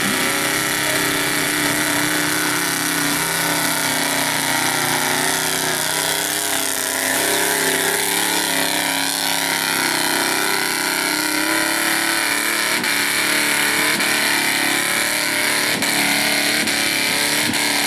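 Souped-up 1997 Chevy Silverado mud truck's engine running hard and steadily, its pitch wavering slightly, under a loud continuous hiss.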